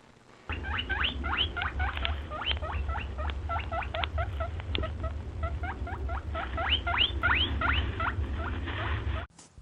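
Rapid run of short, rising high-pitched squeaks from a small animal, about four or five a second, over a steady low hum; it starts about half a second in and cuts off near the end.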